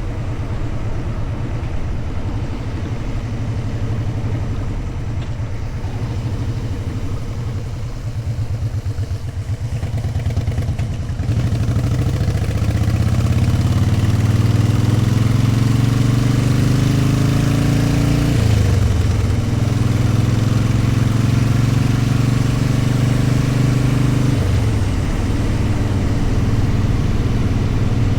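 Motorcycle engine running at low, steady revs, then pulling away about eleven seconds in with the pitch climbing, a brief dip in revs about two-thirds of the way through, then steady cruising. Wind rushes over the microphone as speed builds.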